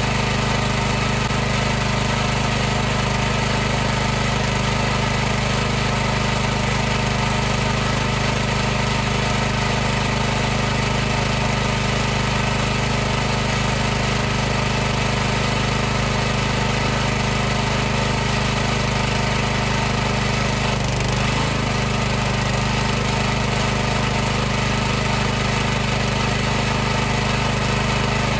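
High-pressure washer running steadily, its motor-driven pump giving a constant hum with a hiss of spray. Its pitch dips briefly about two thirds of the way through.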